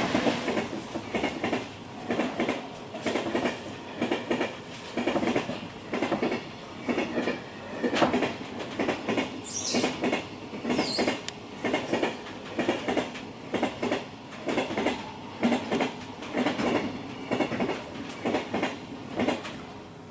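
Train running on the rails, its wheels clattering over rail joints in a steady rhythm of about two clunks a second. Two brief high wheel squeals come about halfway through.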